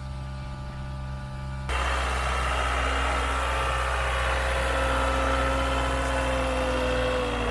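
An engine idling steadily, which becomes abruptly louder about two seconds in and then runs on evenly.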